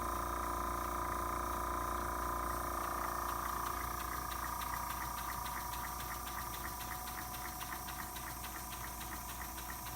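EIWI model beam engine running slowly on compressed air, with a rapid, even series of light ticks over the steady hum of an air compressor.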